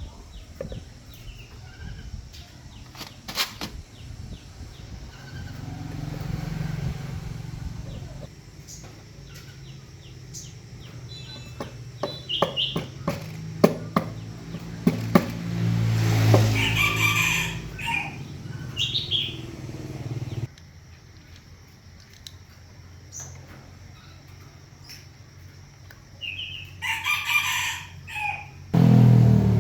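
A rooster crowing twice, about halfway through and again near the end. Between the crows there are scattered sharp clicks and taps, and a low hum that cuts off suddenly about two-thirds of the way in.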